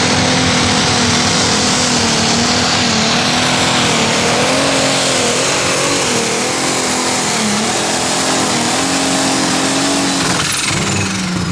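A competition pulling tractor's engine held at full revs under load, with a high whine over it and small dips in pitch. Near the end the throttle comes off: the revs and the whine fall away sharply, and the engine settles to a lower steady run.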